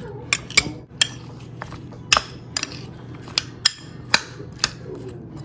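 A kitchen utensil clinking against a bowl or dish while water chestnut pieces are mixed with food colouring: about ten sharp, irregular clinks over a faint steady hum.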